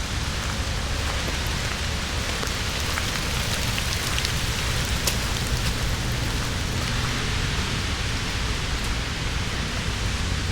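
Steady rain falling on a wet autumn forest, with many single drops ticking on the leaves. A low steady rumble runs underneath.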